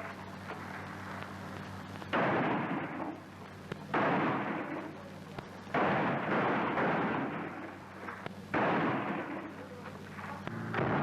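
Four loud gunfire reports, each sudden and trailing off over a second or two, spaced about two seconds apart with a longer gap before the last, over a steady low hum from an early 1930s film soundtrack.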